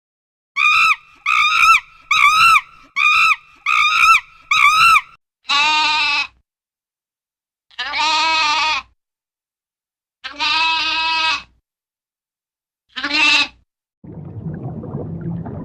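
An animal bleating: a run of seven short, quick calls that rise and fall in pitch, then four longer wavering bleats, each about a second long, a couple of seconds apart. Near the end a low, steady rushing noise begins.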